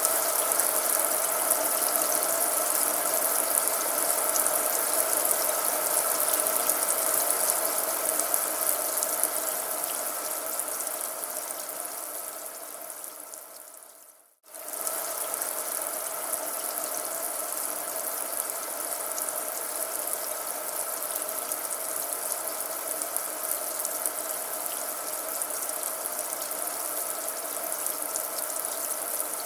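Steady rain, a dense hiss of many drops. About halfway through it fades out and a second rain recording starts abruptly, slightly quieter.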